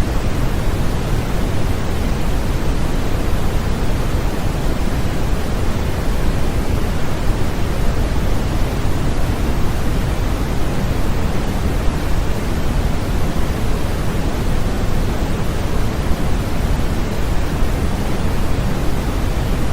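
Continuous white-noise sleep sound: a steady, unchanging hiss with no breaks, fuller and deeper in the low end than in the highs, like pink noise.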